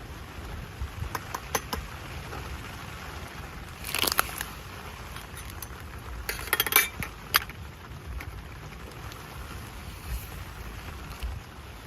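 Small hard objects clinking and clattering in a few brief bouts, about four seconds in and again around six to seven seconds, over a low steady rumble of wind.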